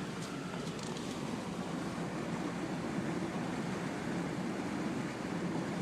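Steady engine and water noise of a vehicle moving through deep floodwater, with a few faint ticks about a second in.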